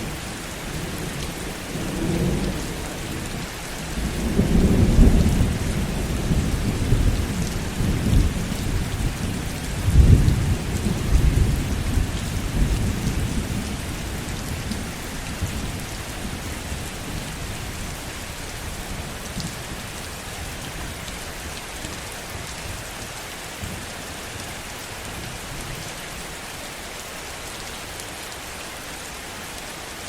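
Heavy rain falling steadily, with rolls of distant thunder rumbling under it. The thunder swells about four seconds in and again around ten seconds, then dies away, leaving only the rain.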